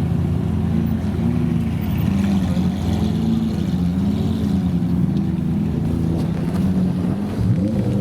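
Supercar engine running at low revs, its pitch wavering slightly up and down; near the end a second tone sweeps upward as revs climb.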